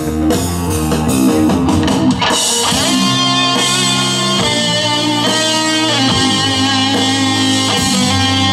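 Rock band playing an instrumental passage with guitar chords and drums, no vocals.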